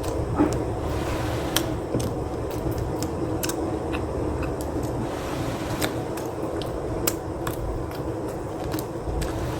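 Close-miked chewing of pizza: irregular wet mouth clicks and smacks, several a second, over a steady low background hum.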